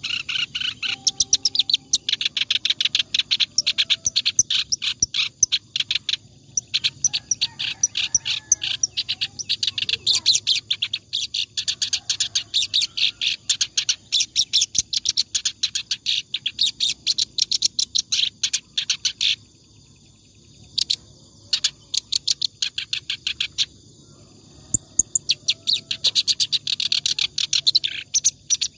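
Kerak basi (reed warbler) singing in long, rapid runs of sharp, chattering notes, with a few brief pauses about two-thirds of the way through.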